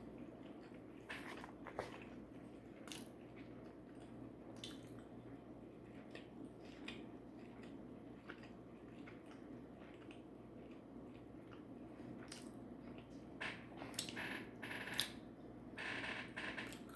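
Quiet eating sounds close to the microphone: soft chewing with scattered short mouth clicks and smacks.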